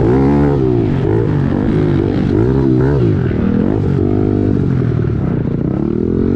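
2017 Kawasaki KLX110L pit bike's single-cylinder four-stroke engine revving up and down again and again under throttle, with a steadier stretch past the middle and a rise near the end.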